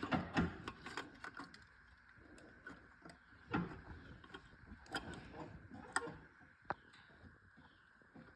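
A few light clicks and knocks at uneven moments, as of hands handling tools and metal parts on a small workbench job, over a faint steady background.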